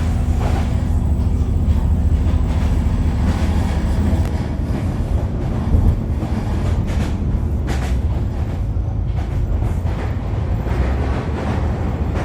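Steady low rumble of a moving vehicle, with scattered clicks and knocks and a brief louder jolt about six seconds in.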